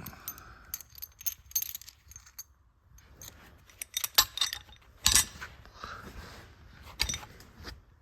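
Scattered metallic clinks and knocks of bolts, lock washers and tools being handled while the tank mount is bolted to the truck bed, with the loudest knocks about four and five seconds in.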